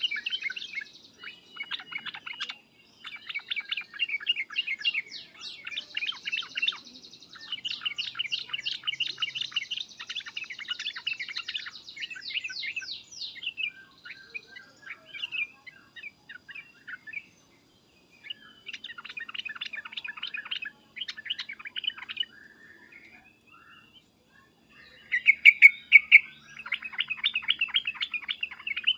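Yellow-vented bulbul (trucukan) giving agitated 'cukcuk' and 'uplikuplik' calls: loud, rapid chattering phrases with pauses, and the loudest burst near the end.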